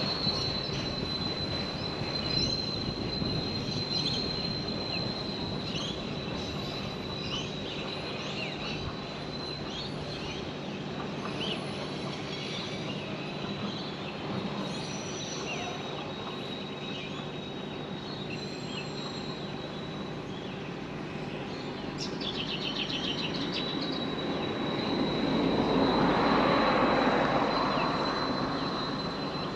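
Narrow-gauge cane railway train hauling a long rake of raw sugar bins, rolling along the track with a steady rumble and a steady high squeal. It grows louder about 25 seconds in, peaking shortly before the end.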